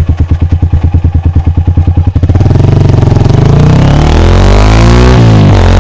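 Lifan KPR motorcycle's single-cylinder engine through an aftermarket Akrapovic exhaust, heard close to the silencer: a lumpy idle of about ten exhaust pulses a second, then about two seconds in the throttle opens and the engine revs up, dips briefly near the end and climbs again.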